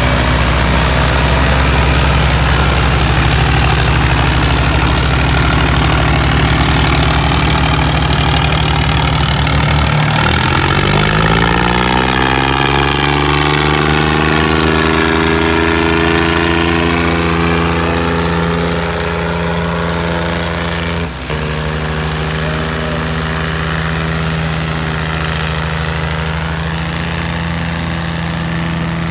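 Three-cylinder diesel engine of a modified New Holland 3630 tractor running steadily. About ten seconds in, the engine note dips and then climbs over a few seconds to a higher, steady speed. There is a brief break in the sound about 21 seconds in.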